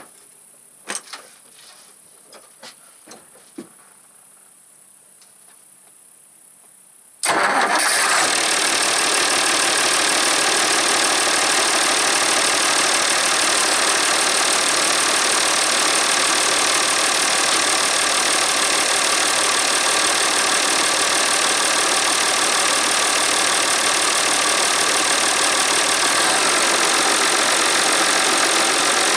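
A few light clicks, then about seven seconds in the Massey Ferguson 1135 tractor's diesel engine comes on abruptly and runs loud and steady.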